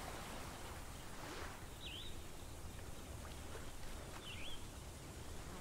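A songbird calling twice, each a short whistled note that dips and then rises, over a faint steady outdoor hiss.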